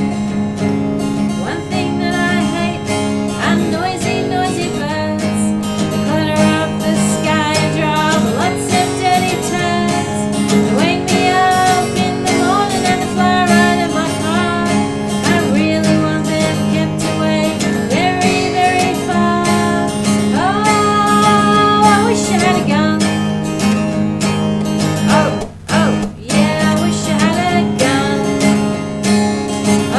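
Cole Clark Angel steel-string acoustic guitar strummed in a folk song, with a voice carrying a gliding melody over it. The music breaks off for a moment about 25 seconds in.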